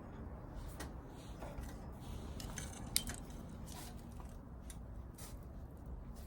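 Light clicks and clinks of small hard objects being handled, with one sharp click about three seconds in.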